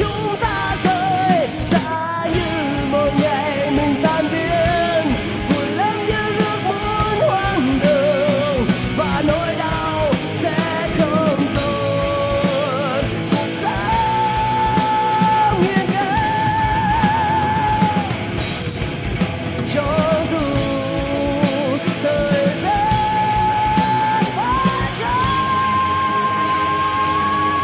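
Rock band playing live, with a lead melody of bending, wavering notes that settle into long held notes over the drums and band.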